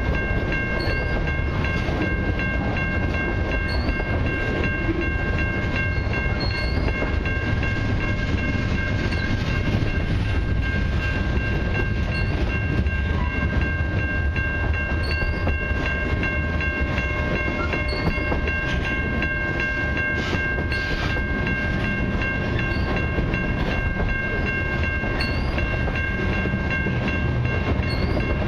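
Freight train's covered hopper and tank cars rolling steadily past, with a continuous rumble and rattle of steel wheels on the rails and a steady high whine above it.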